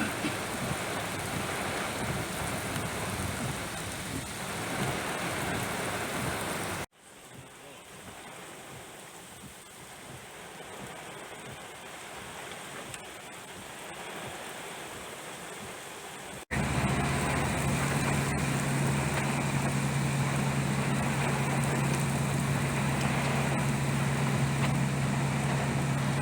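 Heavy rain pouring down as a steady hiss, in three takes: louder for about the first seven seconds, quieter for the next ten. In the last take, from about sixteen seconds in, a steady low hum runs under the rain.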